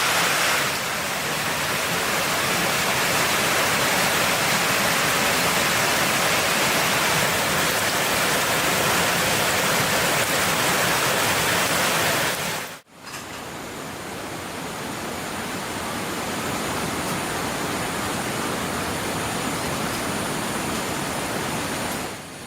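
Steady rushing noise, like rain or running water, that cuts off abruptly about thirteen seconds in and gives way to a quieter steady hiss with a thin, high, steady tone over it.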